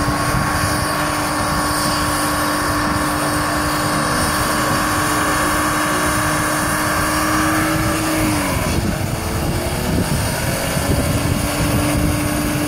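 BMW engine held at high revs in a burnout, the rear tyres spinning in clouds of smoke. The revs hold steady, drop about two-thirds of the way through, then climb back near the end.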